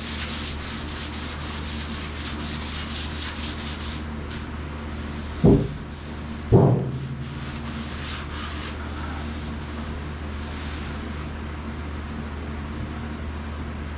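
Hand sanding old paint on a truck's body panel, quick back-and-forth strokes at about four a second, thinning out after about four seconds and stopping near the end. Two loud thumps come in the middle, about a second apart.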